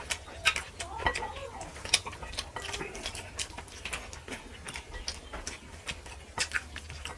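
Close-up eating sounds of fish curry and rice: wet chewing, lip smacks and mouth clicks coming at an irregular pace.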